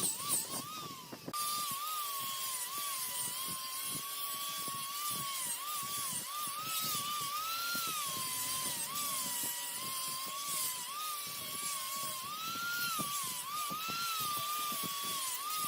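Woodworking lathe turning mahogany, a high motor whine that slowly rises and falls in pitch as the cut loads it, with scraping crackle from the tool on the wood.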